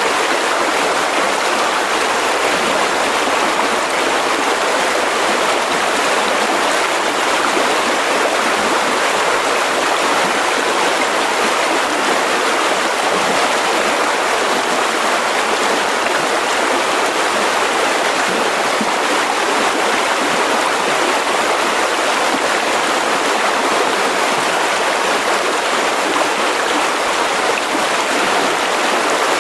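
Mountain river rushing steadily over rocks: a loud, even rush of flowing water.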